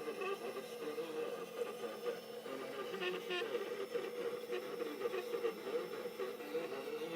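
Stepper motor of a Mantis 9 CNC playing a radio station's broadcast. The signal is picked up by the Pololu A4983 driver when a screwdriver touches it and comes out of the motor windings. A steady hum runs underneath.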